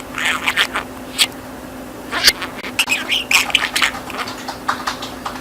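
Budgerigar chattering in quick, scratchy warbles and clicks, a talking budgie's speech-like babble, over a steady low hum.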